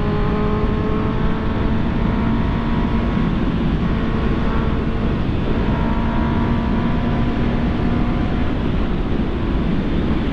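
Honda CB650R's inline-four engine running under way at a steady pitch that rises slightly, then eases near the end, over constant wind and road rush.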